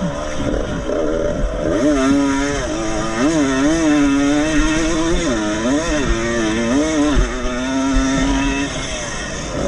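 Vintage 125 cc two-stroke motocross motorcycle engine racing, its pitch rising and falling six or seven times as the throttle opens and closes, then holding steadier near the end.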